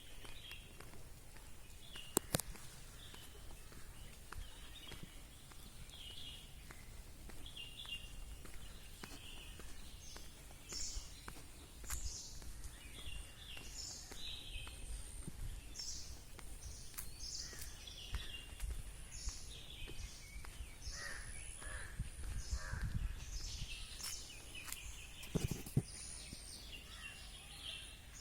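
Birds calling: many short chirps repeated again and again, getting busier about a third of the way in, over a low rumble, with a sharp click twice.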